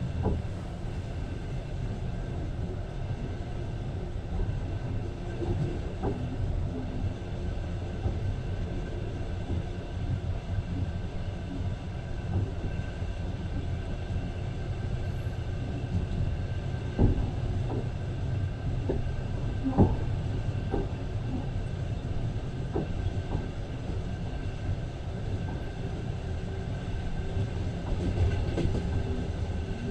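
Passenger train running, heard from inside a carriage: a steady low rumble with occasional wheel knocks over rail joints, two sharper ones past the middle.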